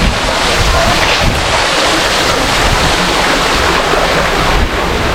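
Loud, steady rush of sea surf, with wind buffeting the microphone.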